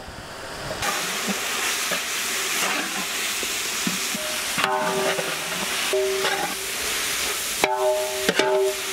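Sliced vegetables sizzling in oil in a large metal pot, stirred with a big metal ladle scraping the pot. In the second half a ringing tone comes and goes about three times as the ladle scrapes.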